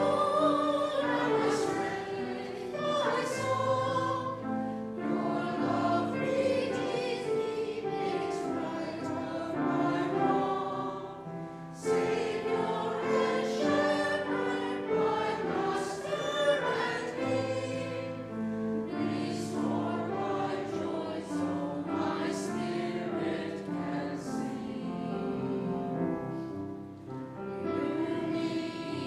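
A choir singing a sacred piece in parts, with held chords and changing notes throughout.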